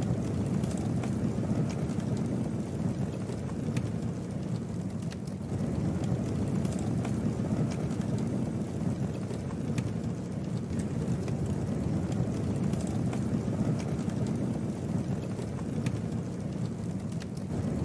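Campfire burning: a steady low rush of flames with scattered sharp crackles and pops from the wood.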